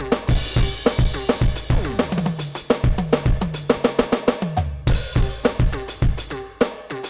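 NUX DM-8 electronic drum kit played through its sound module: a beat of kick, snare and cymbals, a run of tom hits from about two to four and a half seconds in, then a crash cymbal about five seconds in.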